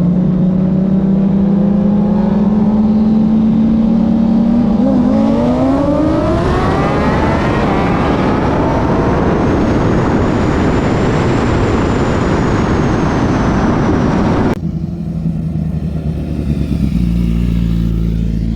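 Twin-turbo Lamborghini Huracan Evo and Suzuki GSX-R motorcycle in a roll race: engines hold a steady cruise, then from about five seconds in rise sharply in pitch under full acceleration into a loud, wide roar. The roar cuts off suddenly, leaving a lower, steady engine drone for the last few seconds.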